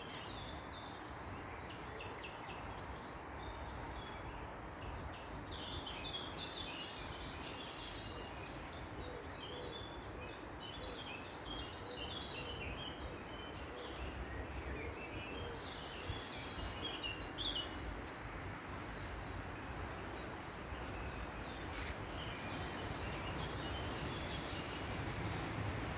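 Several small birds chirping and twittering in quick, overlapping calls over a steady background hum; a low rumble grows toward the end.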